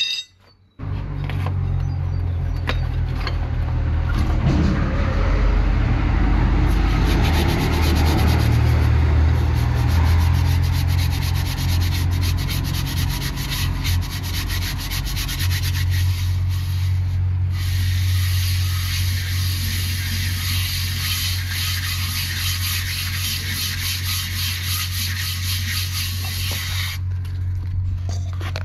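A power tool runs steadily with a rough abrasive noise over a low hum. It starts about a second in, and a higher hiss comes and goes over it.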